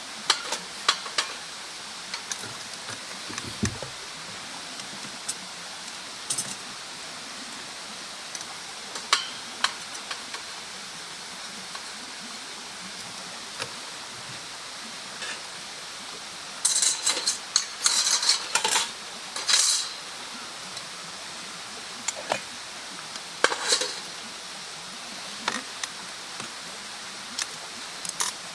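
Scattered sharp clicks and clinks over a steady hiss, with a dense run of clattering about two-thirds of the way through.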